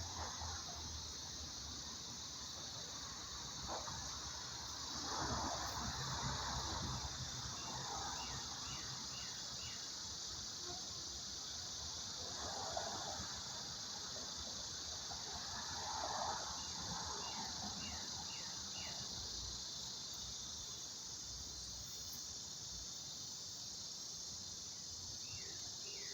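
Cicadas singing: a steady, unbroken high buzz. Runs of short falling chirps come now and then.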